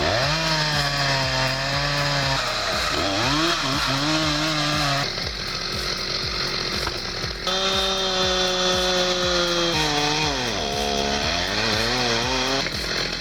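Chainsaw running at high revs, its pitch repeatedly sagging and climbing back as it works. The sound changes abruptly about five seconds in and again about two and a half seconds later, as one clip gives way to the next.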